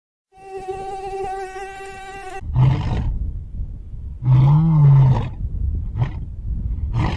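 An insect buzzing in one steady tone for about two seconds, then a series of deep animal calls. The longest call comes about halfway through and rises and falls in pitch; shorter ones follow near the end.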